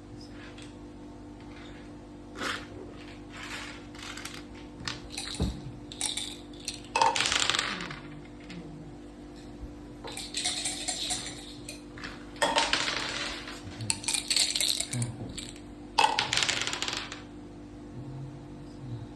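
Dice thrown and clattering on a mak saka (Thai backgammon) board, with playing pieces clacked down, in about eight separate bursts of rattling, the longest lasting about a second. A steady low hum runs underneath.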